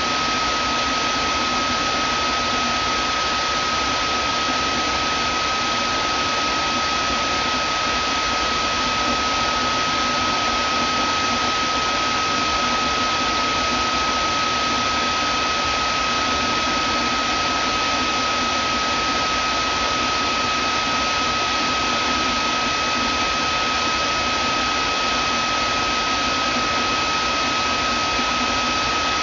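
Vacuum cleaner running steadily: an even rushing of air with a constant high whine from the motor.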